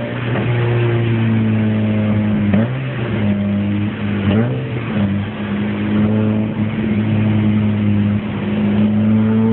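Car engine running through a newly installed exhaust system while driving, with a steady drone. The revs dip and pick up again twice, about two and a half and four and a half seconds in.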